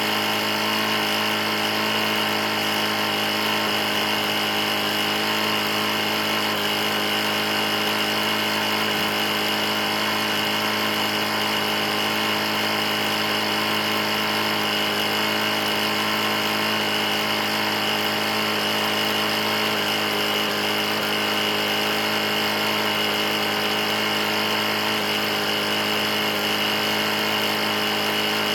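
Briggs & Stratton 450E-series single-cylinder mower engine running steadily at constant speed, with an even, unchanging drone. The engine is knocking badly and is being run to failure.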